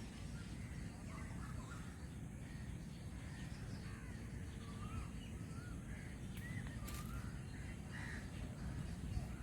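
Wild birds calling in the trees: scattered short, curving calls, with crow-like caws among them, over a steady low background rumble.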